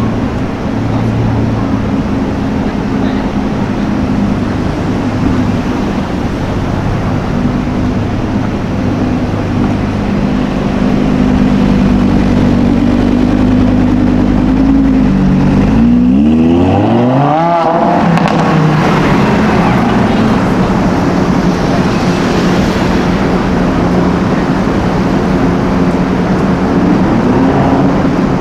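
A supercar's engine running steadily at low revs, then revving up in a quick rising sweep about fifteen seconds in as the car accelerates, followed by loud engine and road noise.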